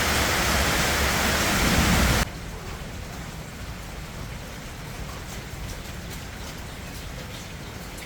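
Heavy rain falling, a loud steady rushing hiss. It cuts off abruptly about two seconds in, leaving a much quieter background with a few faint scattered ticks.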